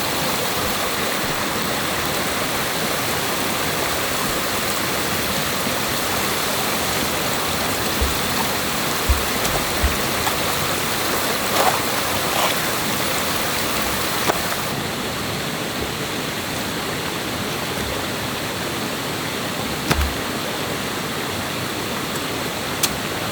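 Rushing stream water, a steady loud rush, with a few dull knocks near the middle and again near the end.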